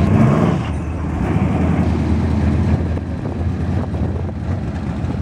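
Twin-turbocharged Chevrolet S10 pickup's engine running steadily with a low, even rumble, a little louder in the first second.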